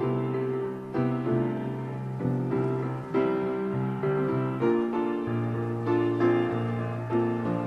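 Piano playing a slow, gentle passage: chords struck about once a second over held bass notes.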